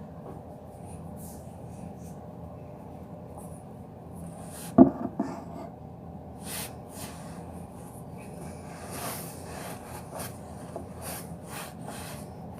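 Handling and rubbing noises, with one sharp knock about five seconds in and scattered short clicks and rustles after it.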